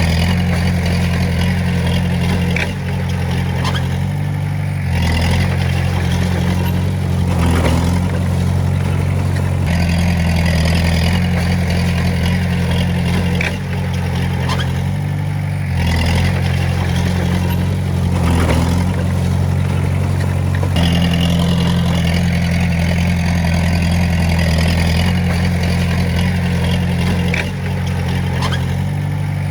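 Diesel engine of a Komatsu D20A crawler bulldozer working, its low pitch stepping up and down every few seconds as the load changes, with a few short metallic clanks.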